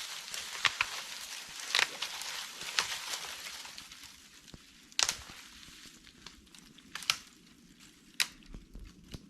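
Food frying in a pan, a sizzling hiss with sharp pops that dies down after about four seconds. A few separate sharp clicks or crackles follow.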